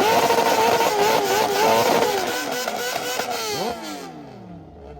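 Car engine held on a two-step launch-control rev limiter, its pitch bouncing and crackling with exhaust pops. About three and a half seconds in the throttle is released and the revs fall away, the sound dying down near the end.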